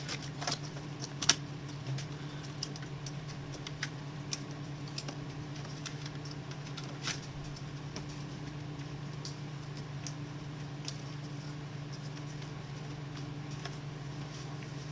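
Scattered light clicks and rattles of injector wiring connectors being handled and pushed onto the injectors of a BMW M57 diesel engine, the sharpest click about a second in, over a steady low hum.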